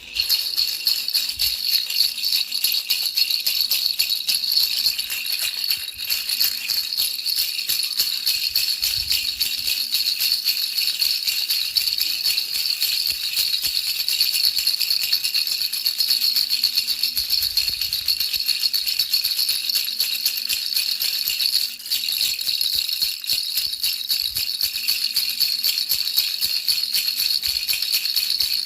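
Baby rattle shaken continuously: a dense, even, high-pitched rattling with no break except a brief dip near the end.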